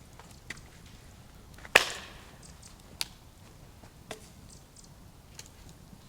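Wood being chopped: a loud sharp strike a little under two seconds in, a second strike about a second later, and a few lighter knocks between them.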